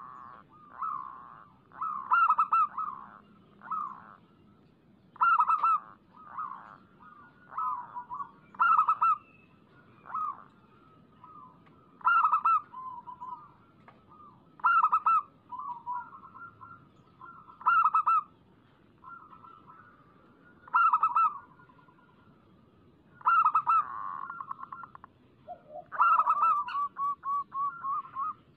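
Zebra doves (perkutut) cooing over and over: phrases of quick, clipped coos, the loudest coming about every three seconds, with a rapid run of evenly spaced notes near the end.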